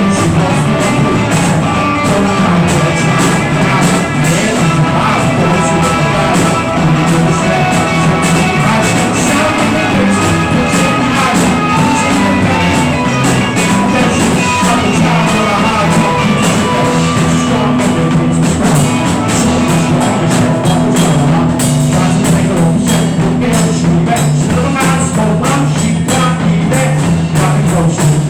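Loud improvised rock music from a band: a drum kit with frequent cymbal and drum hits over held bass and guitar notes.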